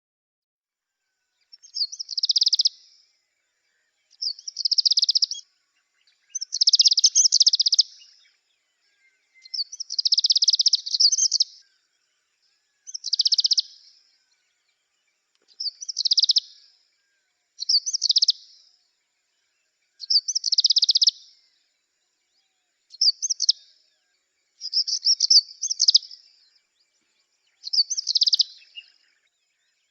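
Bar-winged prinia singing: short, high-pitched phrases of rapid notes, repeated about every two and a half seconds with silence between, starting about a second and a half in.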